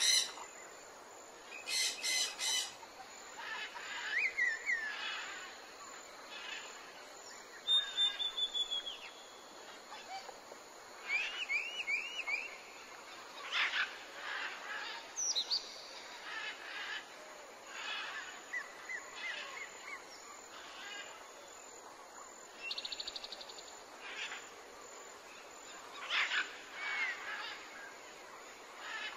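Several birds calling at irregular intervals: short chirps, quick trills and whistled notes that rise and fall.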